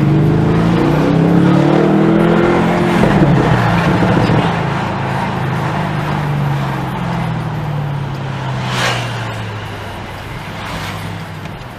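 Bentley Continental GT V8 S's 4.0-litre twin-turbo V8 with sports exhaust accelerating, its note rising for about three seconds, then easing off with the pitch falling slowly. A short noisy burst about nine seconds in.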